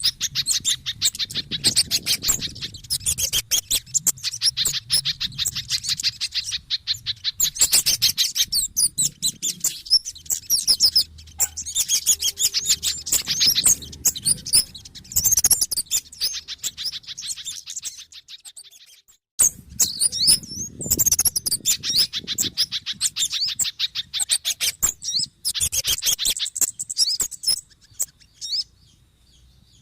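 Bird-lure recording of agitated small-bird calls: dense, rapid high-pitched chirping and twittering from a mix of kemade, sogon and spiderhunter calls. It pauses briefly a little past halfway and drops away just before the end.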